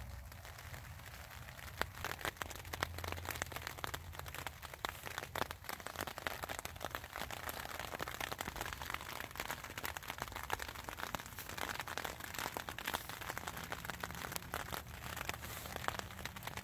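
Light rain pattering on the tent fabric, heard from inside the tent as a dense, irregular ticking of drops.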